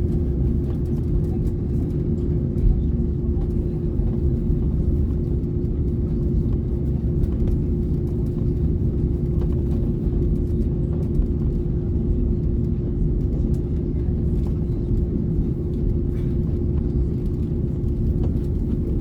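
Cabin noise inside an Airbus A330neo airliner: a steady low rumble with a constant hum and occasional light rattles, holding an even level with no engine spool-up.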